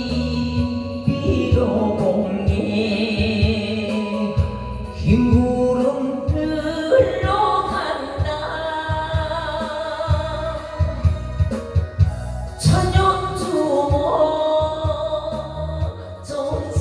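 Korean trot song: a sung melody in long, bending notes over a backing track with a steady bass beat.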